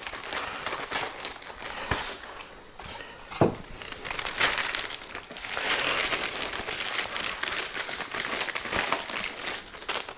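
Packaging being unwrapped by hand: continuous irregular crinkling and rustling as a wrapped foam vertical stabilizer is opened, with one sharp knock about three and a half seconds in.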